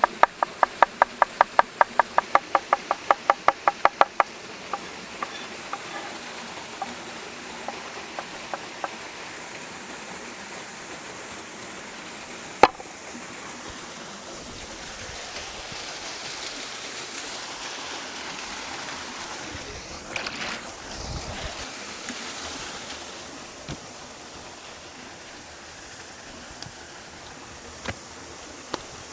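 Rapid, even chopping with a knife on a cutting board, about five strokes a second, stopping about four seconds in. A few scattered taps and one sharp knock follow over a steady rushing background.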